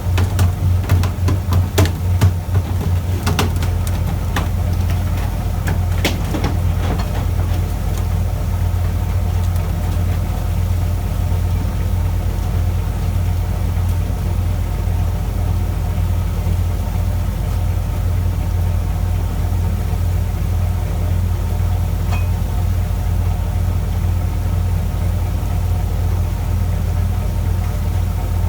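Fishing boat's engine running steadily with a low, even throb. Scattered sharp knocks and clicks sound over it during the first several seconds.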